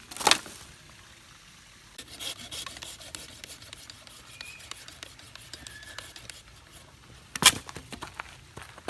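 Rubbing and rasping handling noises with scattered small clicks, and two sharp knocks, one just after the start and a louder one near the end.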